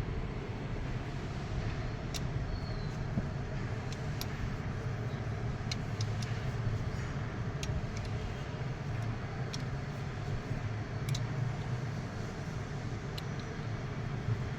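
Steady low engine drone, with scattered light clicks and taps.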